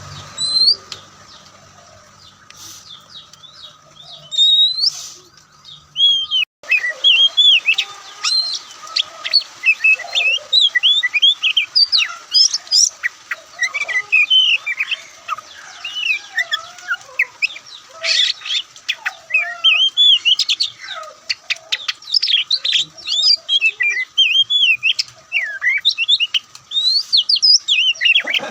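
Oriental magpie-robin singing: a fast, varied run of loud gliding whistles, trills and chattering notes that turns dense and continuous about six seconds in; before that, only a few sparse calls over a low hum.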